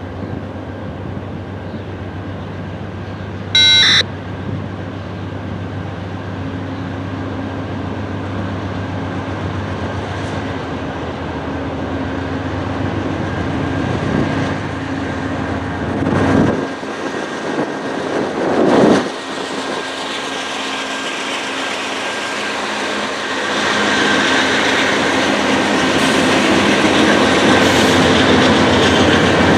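Diesel-hauled freight train running on the line, a steady engine drone and rail noise that grows louder toward the end. A brief, loud tone cuts in for about half a second about four seconds in.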